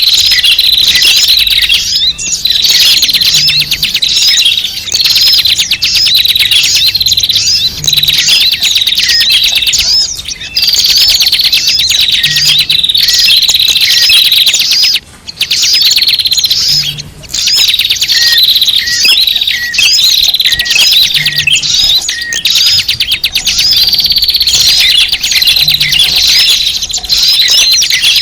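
A dense, unbroken chatter of many small songbirds: quick high chirps and trills overlapping. It is a bird-lure call track of noisy small birds, and its pattern repeats about every four seconds.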